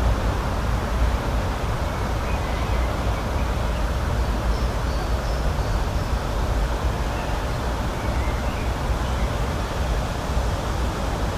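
Steady rushing outdoor nature ambience with a deep rumble underneath. A few faint, short, high chirps, like distant birds, come in the middle.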